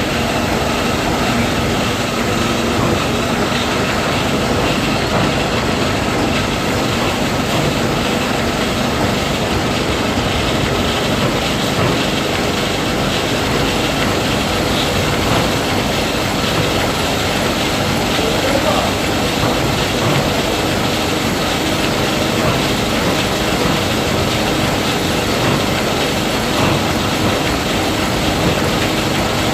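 Combine harvester running steadily, a dense, even mechanical noise that does not let up.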